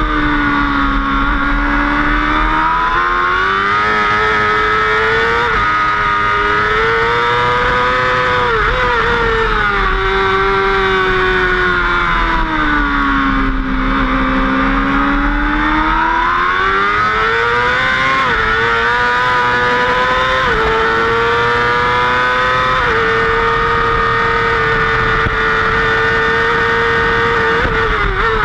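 Racing motorcycle engine at high revs, heard from the bike itself with wind rushing over it; the engine note sinks and climbs as the throttle comes off and back on, with its longest low dip about halfway through. Later come a few quick jumps in pitch at gear changes, and then the note holds steady at full speed.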